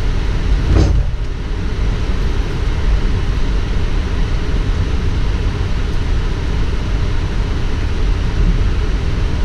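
Steady cockpit noise of a Boeing 777 on the ground: a deep rumble with hiss above it from the engines and airflow, and a brief noisy burst about a second in.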